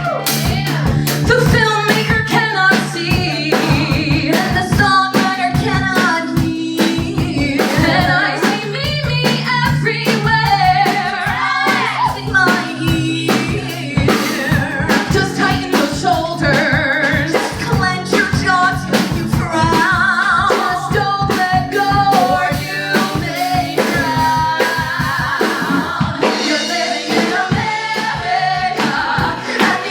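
Live rock song performance: singing backed by a band of keyboard, guitar, bass and a drum kit playing a fast, steady beat.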